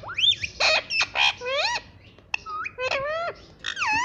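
A pet parrot calling: a quick string of whistled calls that slide up and back down, with a couple of harsh squawks early on.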